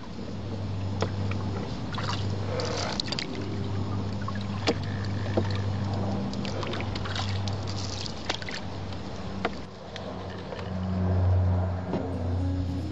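Paddling a small canoe: scattered knocks and clicks of the paddle against the hull and drips of water, over a steady low engine drone that swells near the end.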